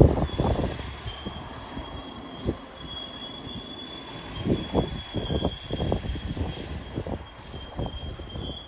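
Train rolling past with a steady high-pitched wheel squeal, over a low rumble and irregular clunks of wheels over the rail joints.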